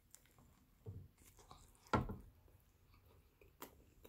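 Quiet close-up chewing and wet mouth sounds of a person eating a mouthful of food, with two louder smacks about one and two seconds in.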